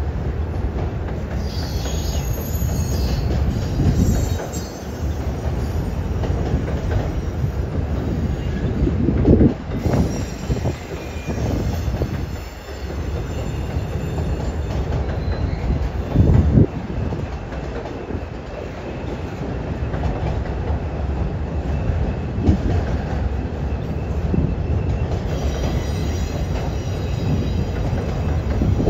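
Double-stack container train rolling across a steel truss bridge, a steady low rumble with high-pitched wheel squeal coming and going. Two sharp clunks about a third and halfway through.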